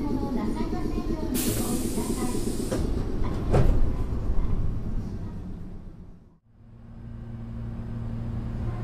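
Meitetsu 6800 series electric train standing at the station: a burst of air hiss, then two clunks about a second apart. The sound then fades almost to nothing and returns as a steady low hum.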